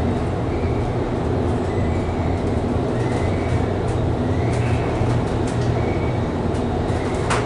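Mongrain inclined elevator car running along its inclined track, a steady rumble with a faint short squeak about once a second. A sharp click near the end.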